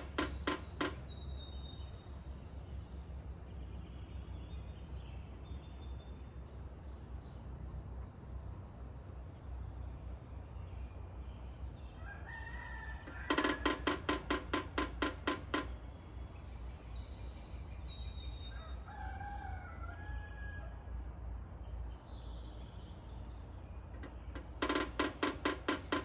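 Woodpecker hammering its bill on wood in rapid bursts of sharp knocks, each about two seconds long: one ending just after the start, one about halfway, one near the end. A few short bird calls come between the bursts, over a steady low hum.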